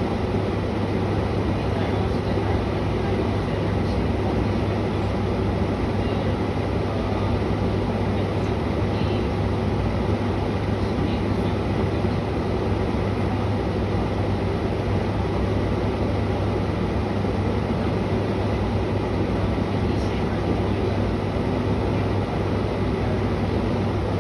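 Window air conditioner running steadily: a constant low hum under the even rush of its fan.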